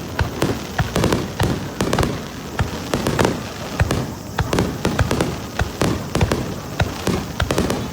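Fireworks bursting in rapid succession: a dense string of bangs and crackles, several a second.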